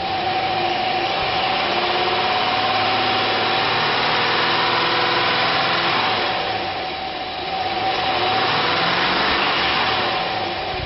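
1998 GMC Sierra 1500's 5.7-litre V8 engine running, with a steady whine over the engine noise. The level dips briefly about seven seconds in and then comes back up.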